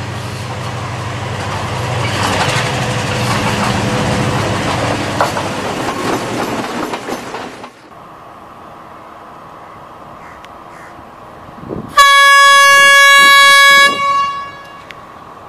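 Diesel train running, a loud engine rumble with wheel clatter for about the first eight seconds. Then a steady engine hum from a Class S14A DEMU, which sounds one loud horn blast lasting about two seconds, about twelve seconds in.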